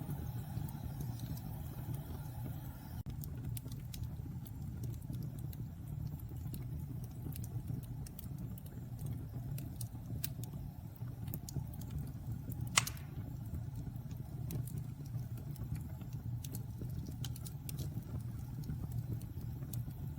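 Wood fire burning in a fireplace: a steady low rumble of the flames with scattered small crackles, and one sharp, loud pop about thirteen seconds in.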